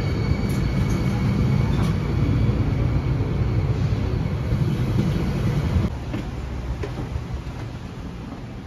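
GO Transit bilevel commuter train at the platform, a low, steady rumble. About six seconds in it drops suddenly to a quieter hum inside the coach, with a few faint clicks.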